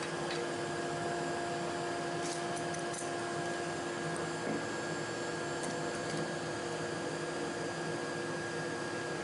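Table saw running at speed, a steady hum and hiss that holds level with no rise or dip from the blade taking a load, with a few faint ticks about two to three seconds in.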